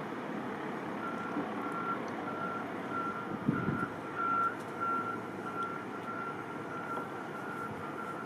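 Reversing alarm of a heavy vehicle backing up: a single-pitched beep repeating about twice a second, starting about a second in, over steady engine and road noise.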